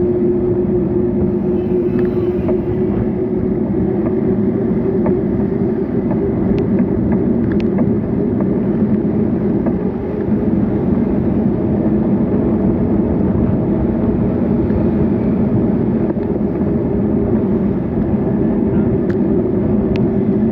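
Steady road-riding noise: a constant engine-like hum over rushing wind and traffic noise, unchanging throughout, with a few faint ticks.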